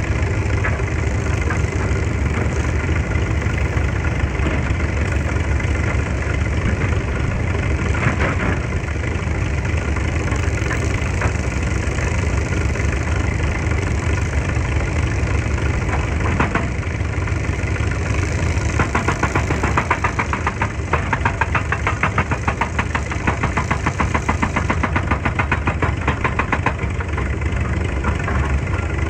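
Heavy diesel excavator engine running steadily with a deep low drone. In the second half a fast, even rattle joins it.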